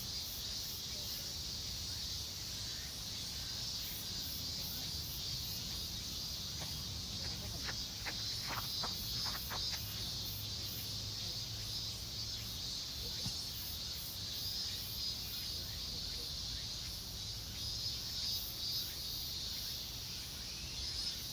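Steady chorus of crickets and other insects: a continuous high trill with faster pulsing above it.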